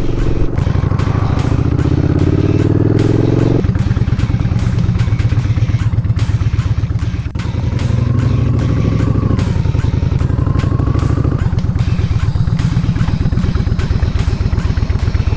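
Yamaha Bolt's air-cooled V-twin engine pulling under acceleration while riding, its pitch climbing then dropping sharply at a gear change about three and a half seconds in, with further shifts later, over wind rush on the helmet camera.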